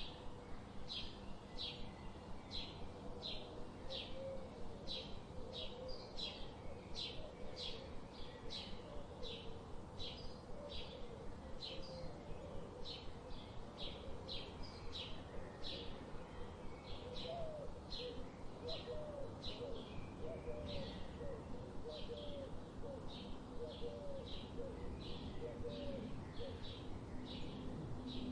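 A bird chirping over and over in short, evenly spaced calls, about two a second, over a steady background hiss. A fainter, lower wavering call joins for most of the middle.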